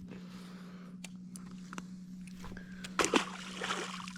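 A short splash of water about three seconds in, over a steady low hum.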